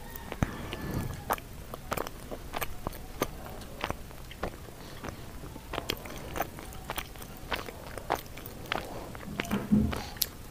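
Close-up chewing of cooked sweet potato leaves and stems: wet mouth smacks and crisp clicks at irregular intervals, about one or two a second. A short low hum sounds near the end.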